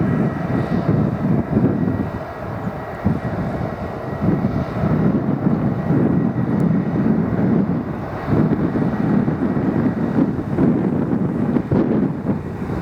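Airbus A319 jet airliner's engines, a steady low rumble from the aircraft on the ground, with wind buffeting the microphone.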